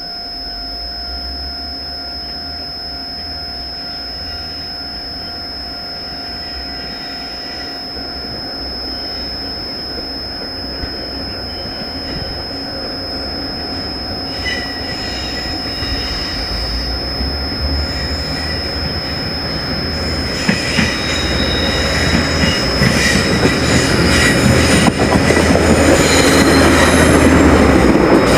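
Train approaching on the rails, growing steadily louder, with rhythmic wheel clatter over the rail joints from about halfway in, over a steady high-pitched tone.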